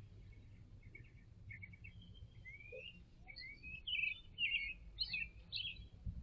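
Birds calling: a few soft, quick chirps, then a run of short, rising, twisting whistled notes in quick succession, over a low background rumble.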